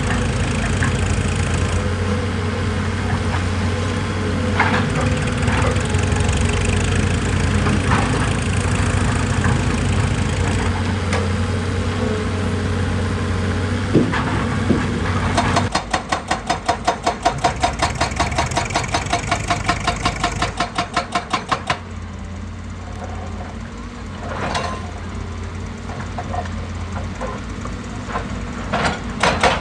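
A heavy diesel machine's engine running steadily with occasional knocks. About halfway through a fast, regular hammering starts and runs for roughly six seconds. The engine then settles quieter, and the hammering starts again near the end.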